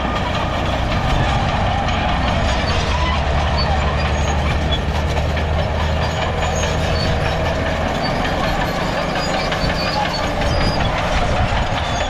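Bulldozer's diesel engine running steadily under load, with the clatter of its steel crawler tracks.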